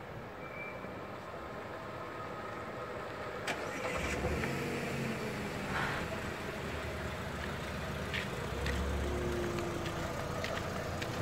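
A white Fiat Panda hatchback's engine running as it drives slowly up close over gravel. It grows louder from about four seconds in.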